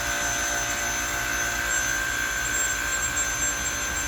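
Commercial chiller running steadily, its condenser fans and compressor making a constant rushing noise with a steady high whine through it.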